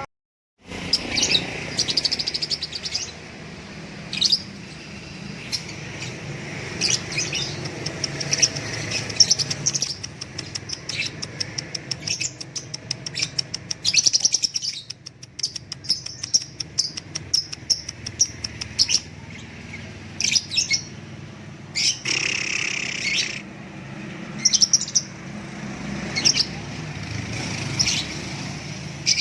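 Caged songbirds singing: a dense run of short chirps and quick trills from several birds, starting just after a brief dropout.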